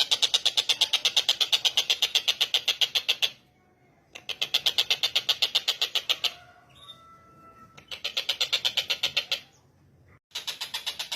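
Tengkek buto kingfisher giving its rattling call: rapid notes at about ten a second, in three bouts of a few seconds each with short pauses between them.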